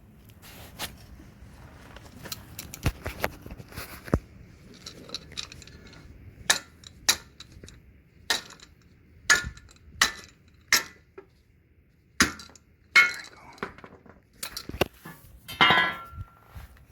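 Metal tool striking and scraping at the steel casing of an old leaf spring bushing pressed in a spring eye: a run of sharp metallic clinks about once a second, each ringing briefly, as the casing is cut through.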